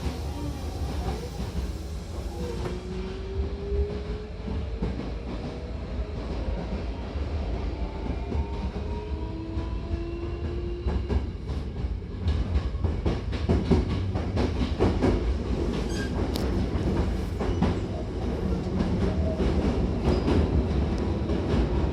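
Hankyu electric train running on the Takarazuka Line: a steady low rumble, with a faint whine rising in pitch as it picks up speed. From about halfway through, the wheels click rhythmically over rail joints.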